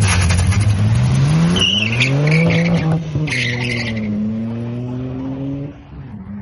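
Car engine accelerating hard: its pitch climbs for about two seconds, drops at a gear change about three seconds in, pulls up again, then eases off near the end. A high wavering squeal sounds over the middle of the run.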